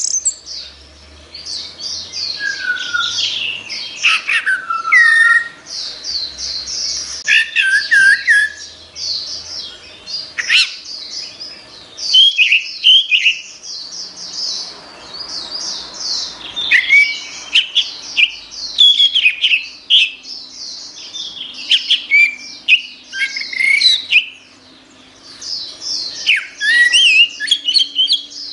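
Orange-headed thrush singing a fast, near-continuous song of varied high whistles, trills and chattering notes, broken by a couple of short pauses.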